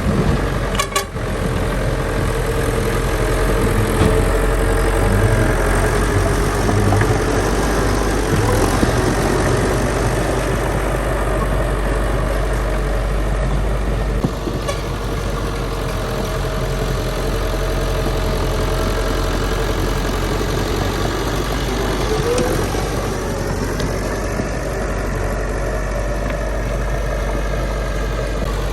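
Heavy diesel engine of construction machinery running steadily, its pitch rising briefly a little past three quarters of the way through.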